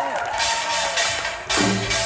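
Live Korean traditional (gugak) ensemble music: a sliding melodic line fades out near the start, then rustling percussion strokes come in, and about a second and a half in a low pitched note is struck.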